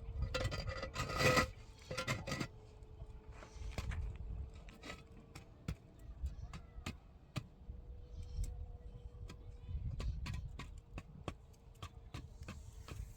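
Scattered knocks, clicks and scraping from hand work with building materials and tools, busiest in the first couple of seconds, over a faint steady hum.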